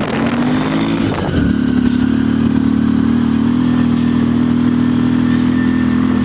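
Motorcycle engine running under way, its pitch climbing over the first second or so as it speeds up, then holding steady.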